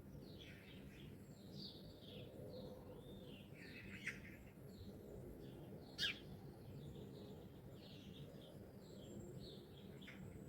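Faint dawn chorus of songbirds: many short chirps and trills overlapping, with two louder sharp calls about four and six seconds in.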